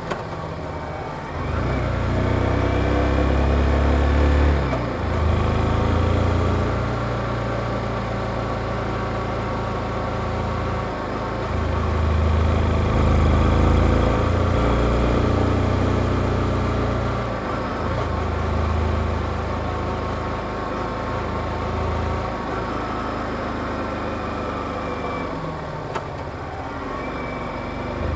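Yamaha XSR155 single-cylinder engine through its stock exhaust, on the move. The revs climb and drop several times with short breaks between, like gear changes.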